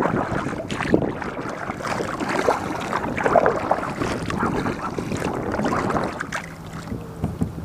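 Water splashing and rushing against a kayak's hull as it moves quickly across the lake, with wind on the microphone.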